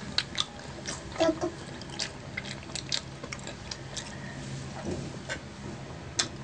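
Close-miked eating and drinking mouth sounds: scattered chewing clicks and lip smacks, with swallowing as orange juice is drunk from a glass pitcher.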